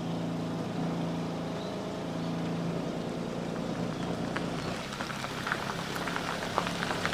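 A car engine running steadily with a low hum, with a few light clicks in the second half.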